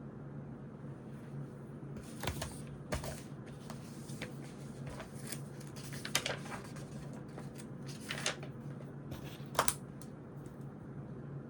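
Irregular short scratches, rustles and taps of study at a desk: pen on paper and stationery or pages being handled, about eight separate sounds. A steady low hum runs underneath.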